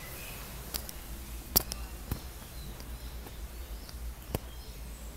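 Faint short bird chirps over a steady low hum, with a few sharp clicks, the loudest about one and a half seconds in.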